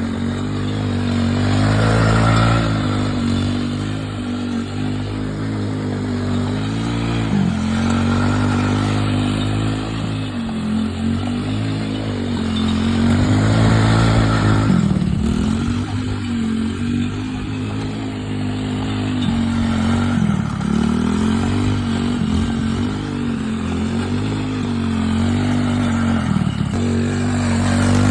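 Small off-road vehicle engine riding under load, its revs rising and falling over and over as the throttle is worked, with short dips in pitch every few seconds.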